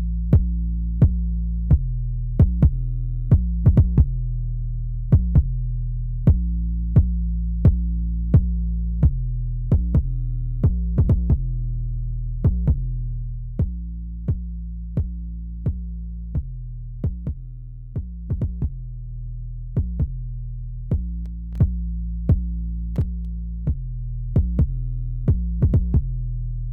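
Electronic loop of sharp drum-machine hits over a sustained synth bass line, played through a tape saturation unit for a demo. The level sags a little partway through, rises again, and the loop cuts off suddenly at the end.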